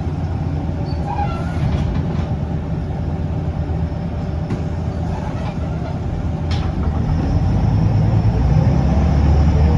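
Scania L94UB city bus running under way, its diesel engine and ZF automatic gearbox giving a steady rumble with occasional rattles and knocks. About seven seconds in it grows louder as the bus accelerates, and a rising whine comes in near the end.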